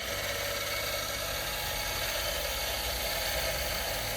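A rust-removal power tool switches on and runs steadily as it works rust off a small metal part.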